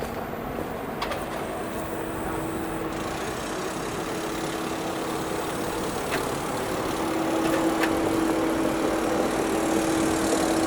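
Motor-vehicle noise: a steady engine hum over a background of street noise, getting louder about two thirds of the way through as the vehicle comes closer or picks up revs.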